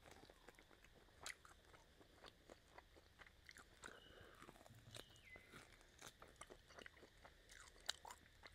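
A person chewing and gnawing meat off a pork rib bone, close to the microphone: faint, irregular small clicks and crunches of teeth and mouth, a little louder about a second in and near the end.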